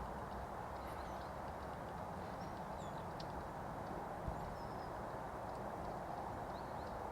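A few faint, short, high wild-bird chirps scattered over a steady outdoor background hiss, with one brief click about four seconds in.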